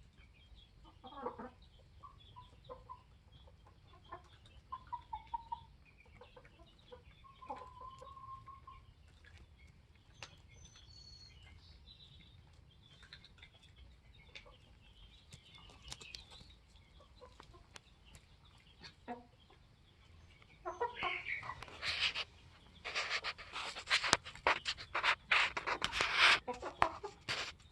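Polish chickens clucking softly with short, quiet calls. From about two thirds of the way in, loud rustling and scuffling bursts take over.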